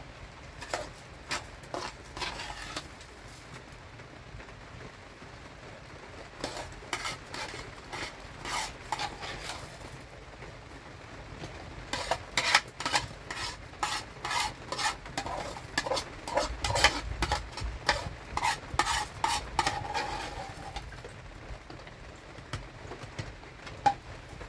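Spoon stirring and scraping food in a cooking pot, in bouts of quick strokes, the longest and busiest in the second half.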